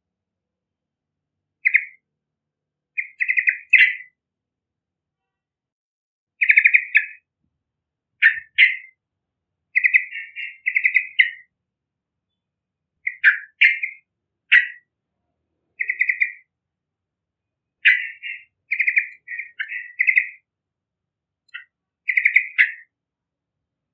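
Yellow-vented bulbul singing: short, bubbly, chattering phrases around the same pitch, repeated in bursts every second or two with brief silences between.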